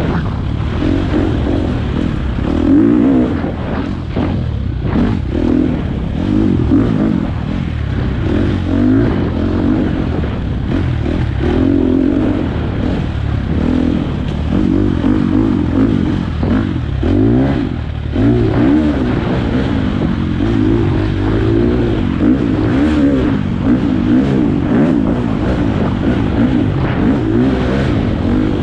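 Four-stroke single-cylinder dirt bike engine being ridden hard, its revs rising and falling every second or two as the throttle opens and closes and the gears change.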